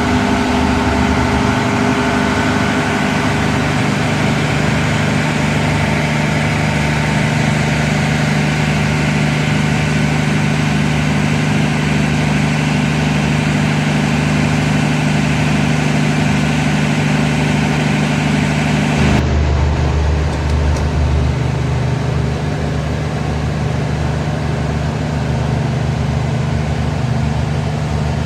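A large engine running steadily with a constant low hum. About two-thirds of the way through, the sound changes abruptly and loses its high end.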